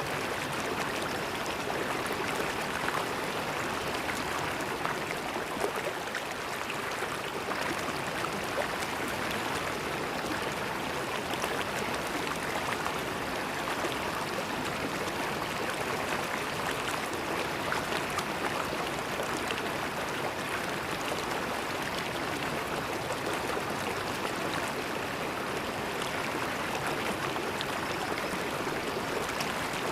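Flowing river water: a steady, even rush of a shallow stream with small splashes and gurgles scattered through it.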